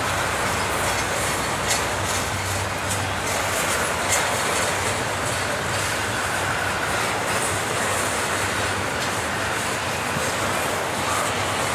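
Norfolk Southern double-stack intermodal freight train's well cars rolling past: steady noise of steel wheels on rail with clicking wheel beats and two louder knocks about two and four seconds in.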